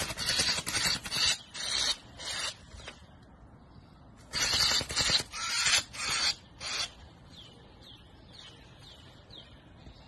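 A bird caught in a snake's coils squawking harshly in repeated rasping bursts, then about five short falling chirps near the end.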